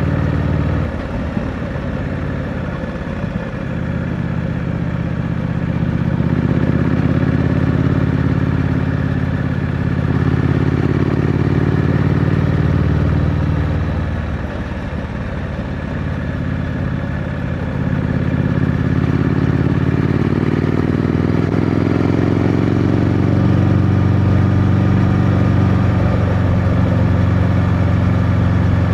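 Triumph Scrambler 900's parallel-twin engine through its stock exhaust, ridden on the road. The note drops about a second in, climbs steadily under acceleration, dips again about halfway through as the throttle eases, then rises and holds high near the end.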